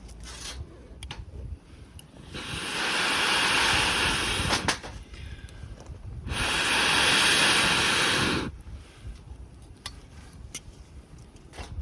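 Small butane mini torch fired twice to light kindling, each time a loud, even jet hiss of about two seconds that cuts in and out abruptly, with a few light clicks in between.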